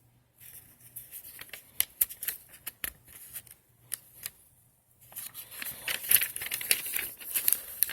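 Paper instruction manual being handled and its pages turned: crisp rustling and crinkling with sharp ticks. It eases off briefly past the middle, then turns denser.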